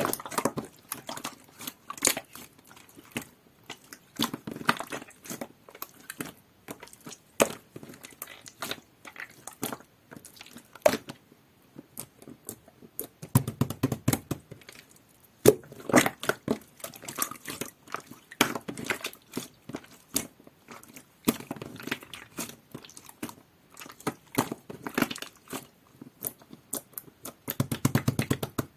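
Hands squishing, poking and stretching a clear jelly-type slime, giving a steady stream of sharp wet clicks and pops. A few heavier squelching presses come about four seconds in, around the middle, and near the end.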